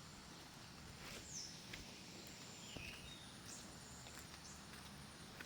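Faint bird calls outdoors: a few short high notes that slide downward, about a second in and again near three seconds, with a few soft clicks over a quiet background.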